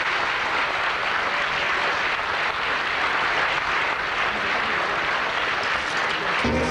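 Concert audience applauding steadily. Near the end a band starts playing, with guitar.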